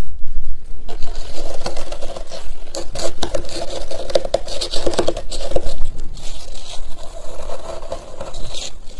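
Squeaky freezer frost being scraped: a squeaking tone with many crunchy clicks starts about a second in, over a low rumble.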